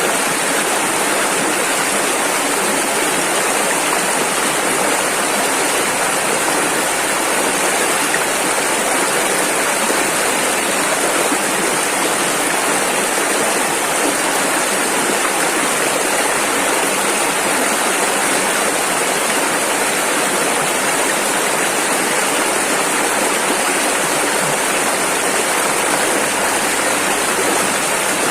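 Rushing river water, a steady, unbroken rush of churning flow with no pauses or changes.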